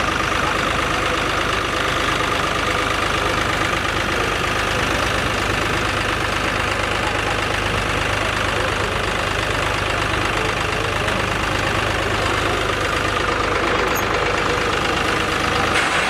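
New Holland 3630 tractor's three-cylinder diesel engine running steadily at low revs, with no revving up or down.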